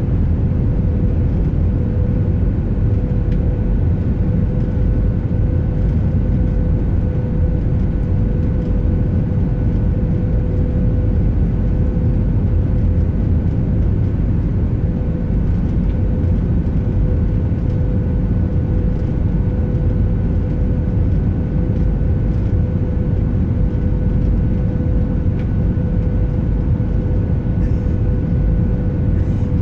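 Steady cabin noise inside a jet airliner on its approach to landing: a low, even rush of engines and airflow with a faint constant hum.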